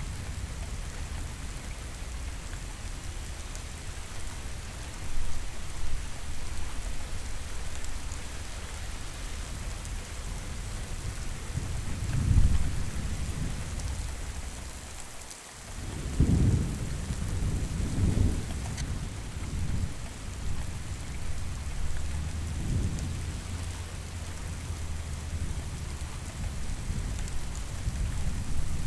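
Steady rain falling, with low thunder rumbling several times through the middle, a few rolls in a row, each swelling and fading over a second or two.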